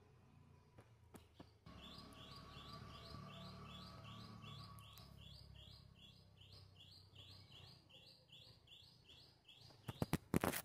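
A bird outdoors repeating a short high chirp, about three a second, for several seconds. Near the end comes a quick cluster of loud, sharp knocks.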